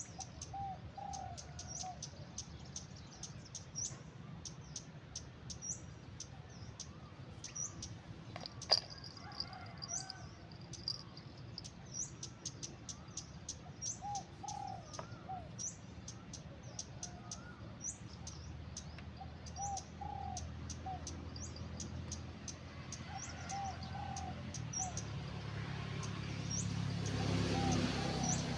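Birds calling: a steady run of short high chirps, with lower two- or three-note calls every few seconds. A single sharp click about nine seconds in, and a low rumble that grows louder over the last few seconds.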